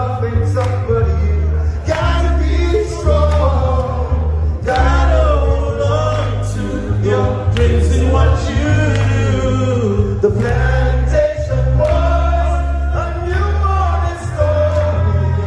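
Men singing a song together over backing music with a steady heavy bass line.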